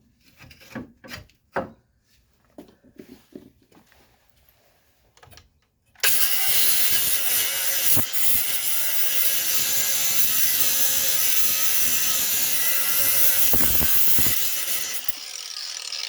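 A few light clicks and knocks of tools being handled, then about six seconds in a power cutting tool starts and cuts steadily through metal for around nine seconds before winding down near the end, cutting through the head of a stuck suspension bolt.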